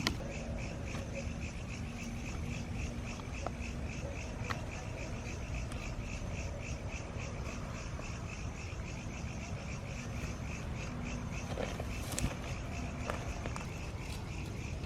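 A chorus of calling animals chirping in fast, even pulses that run on steadily, over a low rumble of background noise. A couple of faint clicks are heard along the way.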